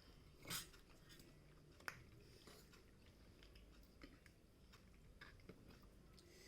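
Near silence with faint eating sounds: chewing, a short scrape about half a second in and a sharp click near two seconds, as of a fork on a plate.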